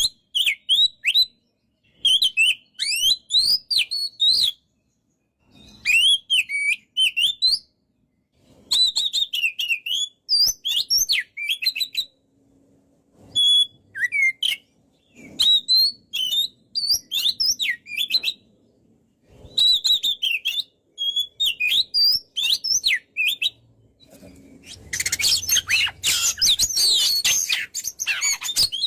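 Oriental magpie-robin (kacer) singing in full voice: rapid, varied phrases of sweeping whistles and chatter, each a second or two long with short pauses between. In the last few seconds the song becomes dense and almost unbroken.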